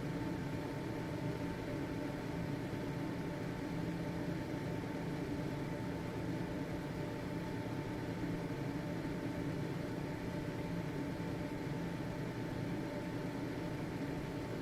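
Household ventilation fan running steadily: an even low whirring hum of motor and moving air, with a faint steady tone above it.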